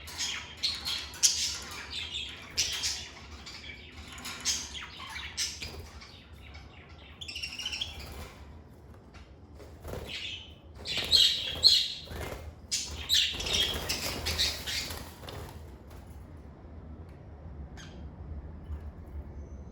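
Lovebirds chirping and squawking in rapid, shrill clusters, dying away about three quarters of the way through, with a single call near the end.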